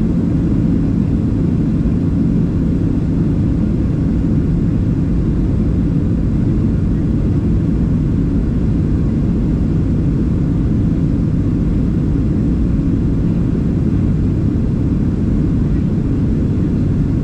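Steady low rumble of a Boeing 737-700 inside the cabin: the CFM56 engines and airflow running evenly, with a faint steady hum under the roar.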